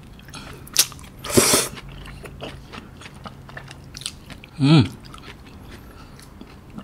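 Close-miked chewing of a fried-chicken sandwich (KFC Cheezilla Double Down: breaded chicken fillets with melted cheese), with wet mouth clicks and a crunchy bite about a second and a half in. A short falling vocal sound from the eater comes about two-thirds of the way through.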